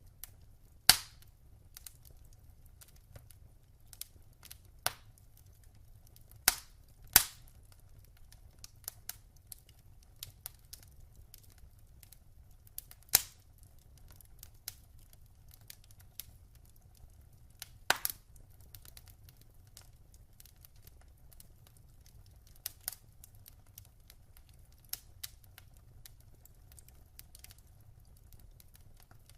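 Wood fire in a fireplace crackling: irregular sharp pops and snaps, a handful of them loud, over a faint low rumble.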